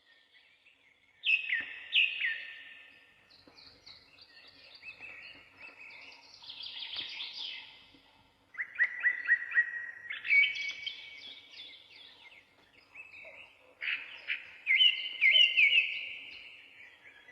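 Birds singing: clear chirps and quick trills in overlapping phrases from more than one bird, starting about a second in after a brief hush.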